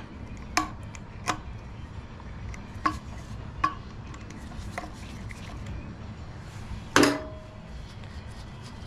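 Small metal carburetor parts and hand tools clinking and tapping on a workbench: a handful of scattered sharp clicks, then one louder knock about seven seconds in that rings briefly.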